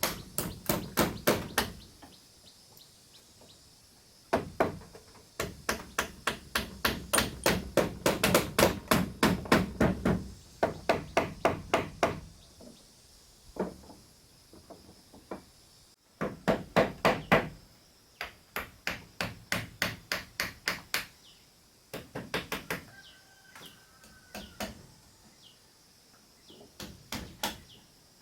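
Hammering in quick runs of evenly spaced blows, about four a second, stopping and starting several times. A few faint bird chirps come between runs near the end.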